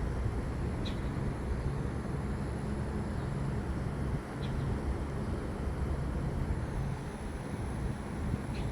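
Gusty storm wind rushing and buffeting the microphone with a rough, rumbling low end. Three short high chirps sound faintly over it, about a second in, midway and near the end.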